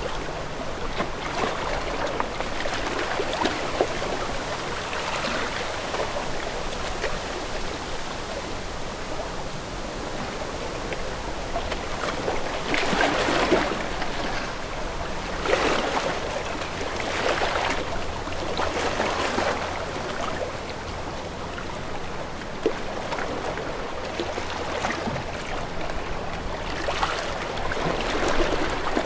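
Sea waves washing and lapping as a steady rush of water, with swells of louder wash every few seconds.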